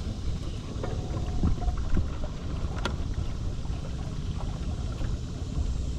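Wind rumbling on the microphone in a small boat on the water, with a few light knocks and one sharp click about three seconds in.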